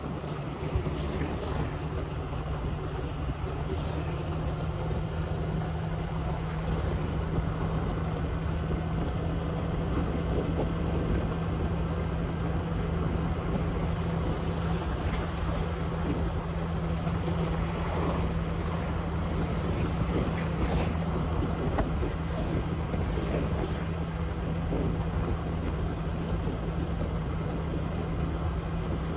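Motorbike engine running steadily at an even cruising speed, with a constant low hum, mixed with wind rushing over the microphone and road noise.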